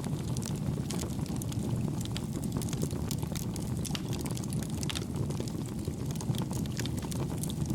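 Campfire burning: a steady low rumble of flames with many small, quick crackles and pops.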